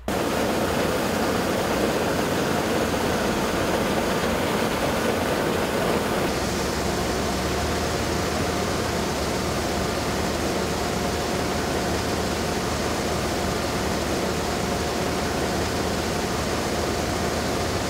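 Rice harvest machinery running steadily, a loud even engine-and-machine noise with a faint steady tone that comes in about six seconds in.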